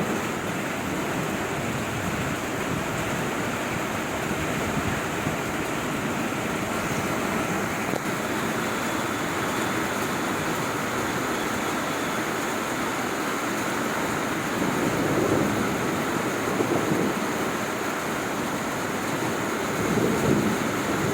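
Heavy rain falling steadily, a dense even hiss. Low rumbling swells come through about fifteen and twenty seconds in.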